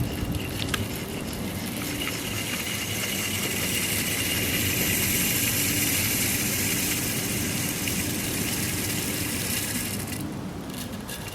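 Truck engine running under load as it hauls a log uphill through a six-pulley block-and-tackle cable rig. A steady high hiss and whine builds about two seconds in and falls away about ten seconds in.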